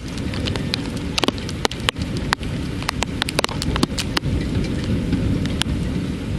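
Heavy thunderstorm rain, with many sharp close drop strikes over a low rumble of thunder that grows stronger in the second half.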